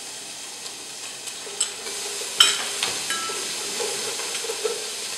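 Minced garlic sizzling as it sautés in hot oil in a stainless steel pot, stirred with a wooden spoon. A few sharp knocks ride over the steady sizzle, the loudest about two and a half seconds in.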